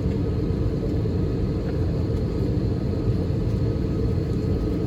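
Steady low rumble inside the cabin of an Airbus A320-200, even and unbroken.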